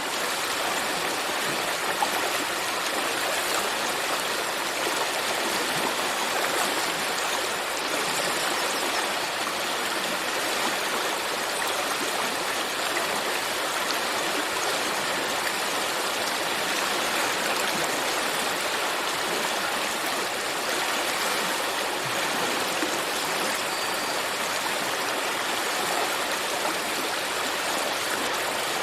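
Stream water flowing: a steady, even rush of running water.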